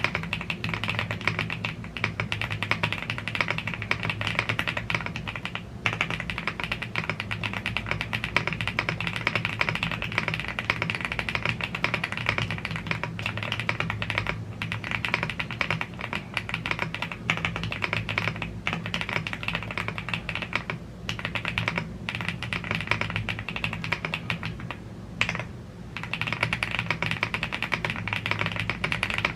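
Continuous typing on a YUNZII AL75 gasket-mounted aluminium mechanical keyboard with Blue Grey tactile switches and double-shot PBT Cherry-profile keycaps. The key clacks come dense and steady, with a short lull about 25 seconds in.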